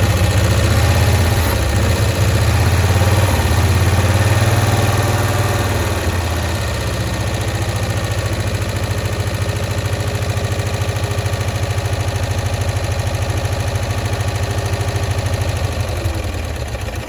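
1965 Cushman Truckster's engine running on a poorly adjusted carburettor while its mixture screws are turned, settling a little lower after about six seconds and starting to die away at the very end. The owner suspects a stuck carburettor float.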